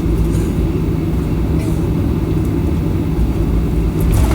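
Steady low rumble of a Boeing 737-800's engines and airflow heard inside the passenger cabin, with a brief rattle or crackle near the end.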